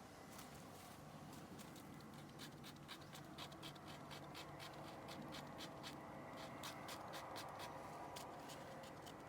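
Faint campfire crackling: irregular small snaps and pops from burning wood, thickest through the middle.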